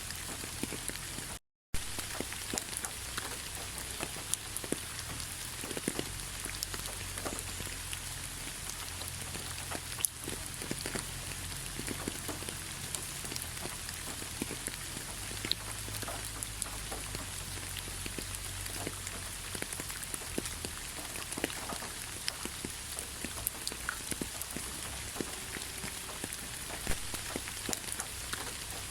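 Steady rain falling, with many separate drops ticking on a surface over an even hiss. The sound cuts out to silence for a moment about a second and a half in, then resumes.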